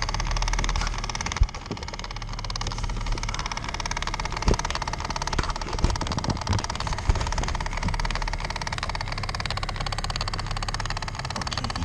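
Car heater/AC blower running in the cabin over a fast, even clicking from behind the dash, with a few louder knocks. The clicking is the air door (blend door) actuator's stripped gears skipping: the actuator is failing.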